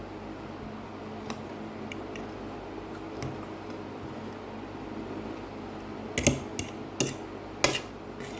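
Eating sounds: scattered faint ticks, then a cluster of sharper clicks and smacks about six to eight seconds in, over a steady low hum.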